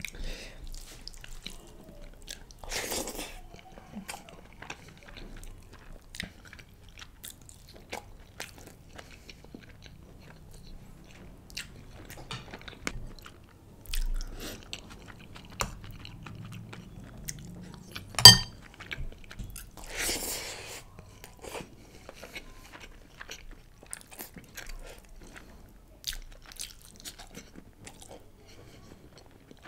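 Close-miked eating sounds of a man chewing chicken biryani and raita: wet chewing with many small mouth clicks and smacks, and one sharper, louder click about 18 seconds in.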